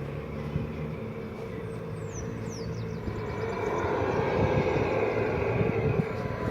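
Off-road truck engine running under load as it climbs, growing louder about four seconds in.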